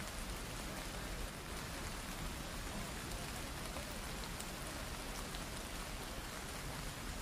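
Heavy rain falling steadily on wet stone paving, an even hiss with no breaks.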